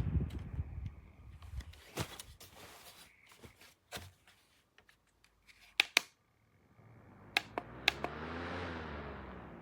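A handful of sharp clicks, then a small portable fan's motor humming, rising in pitch and winding back down near the end.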